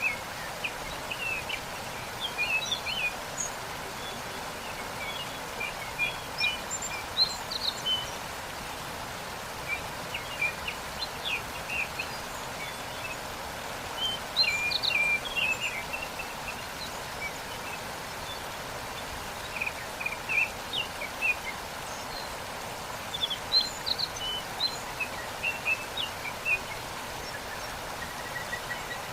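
Waterfall water rushing steadily, with songbirds chirping and trilling in short bursts over it.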